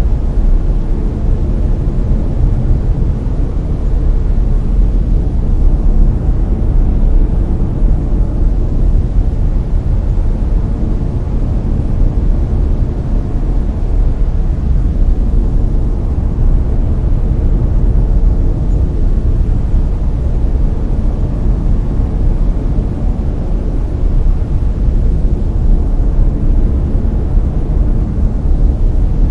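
Layered brown noise: a steady, deep rushing hiss with most of its energy in the low end and little in the highs.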